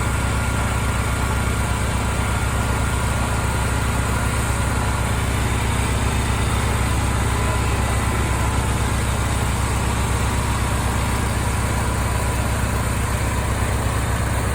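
Engines of a farm tractor and a portable generator running steadily as they power pumps draining a flooded pond: a low, even drone that does not change.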